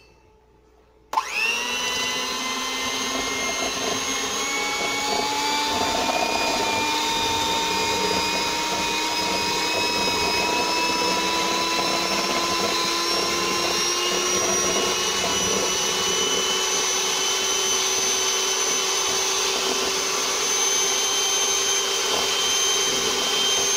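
Electric mixer whipping cream with sugar into whipped cream: its motor starts abruptly about a second in and runs steadily, its whine creeping slowly higher in pitch.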